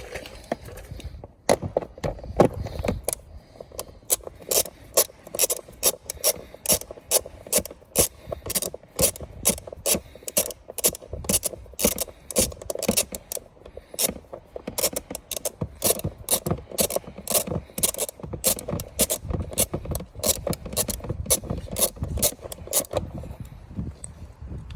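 A ratchet with a 10 mm socket clicks steadily, a few clicks a second, as it backs out the seat bolts. The clicking stops near the end.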